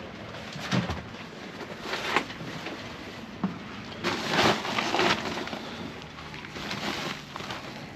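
Scattered light knocks and rustling of gear being handled and stowed aboard a sailboat, with a longer rustle about halfway through.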